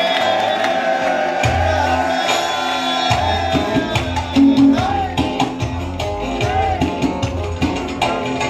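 Live Turkish folk band music. A long held note fades out, then bass and drums come in about three seconds in under plucked strings.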